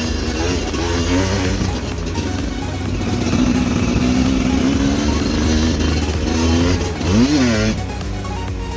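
Motorcycle engine running under load on a rough trail, its pitch rising and falling with the throttle, with a quick rev up and back down about seven seconds in.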